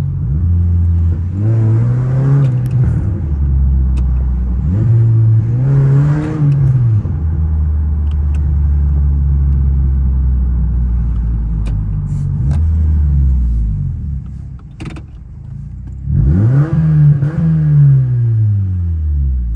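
The 1.8-litre four-cylinder of a 2012 Honda Civic, through an aftermarket eBay-muffler exhaust, idling and being revved and let fall back four times, three of them big revs and one a short blip. A few sharp pops come out in between.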